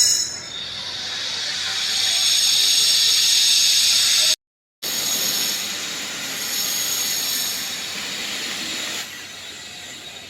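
Heavy rain falling, a steady loud hiss, which cuts out for about half a second around four seconds in before carrying on.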